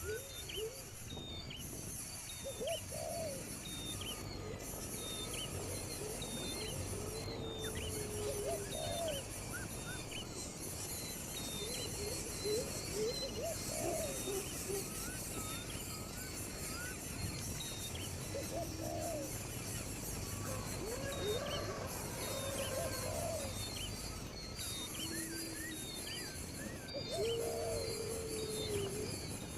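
Outdoor animal chorus: a steady high insect buzz with short, arched low calls repeating every one to two seconds, and small high chirps.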